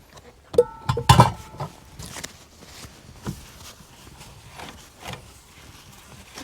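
Cookware and utensils being handled during clean-up: a clatter of knocks with a metal piece ringing briefly about a second in, then lighter scattered knocks and rustling.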